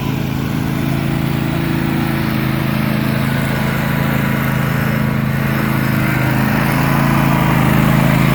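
Riding lawn mower engine running steadily, slowly growing louder.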